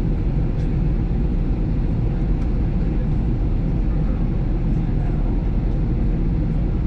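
Steady rumble of an Airbus A320's engines and airflow heard from inside the passenger cabin.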